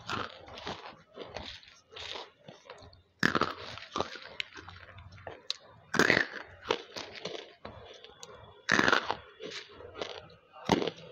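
Banslochan (bamboo silica) lumps being bitten and chewed close to a headset microphone: crisp crunches, with loud sharp bites about every three seconds and quieter chewing crunches in between.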